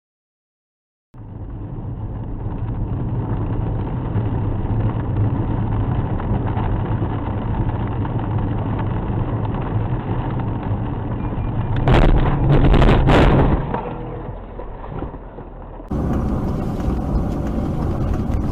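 A motor vehicle's engine running steadily, then a loud clattering crash of several impacts about twelve seconds in. After a cut near the end, another vehicle is heard running.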